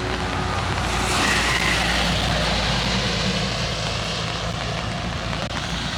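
Steady rain hissing on an umbrella, with a low, steady rumble of road traffic underneath.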